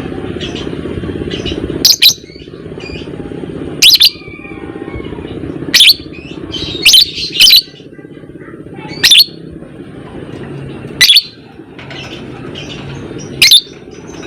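Lovebird calling: loud, shrill, short squawks repeated about every one to two seconds, some in quick pairs, over a steady lower buzzing chatter.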